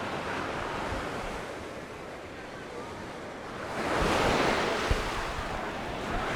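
Sea waves breaking on the shore, with a wave surging and washing in about four seconds in. Wind rumbles on the microphone.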